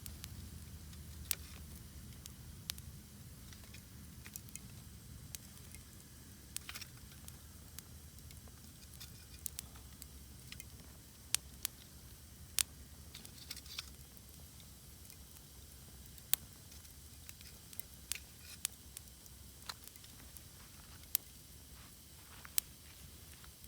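Wood campfire crackling: sharp, irregular pops about once a second over a faint low rumble, with a couple of brief hisses.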